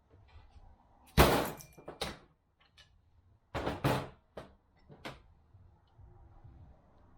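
A handful of sharp metal clanks and knocks from tools and transmission parts being handled and worked, the loudest about a second in and a pair near the middle, each with a short ringing tail.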